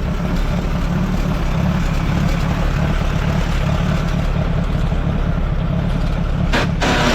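1948 Allis-Chalmers C tractor's four-cylinder engine running steadily at idle, with the PTO not yet engaged. Near the end comes a short harsh burst of noise.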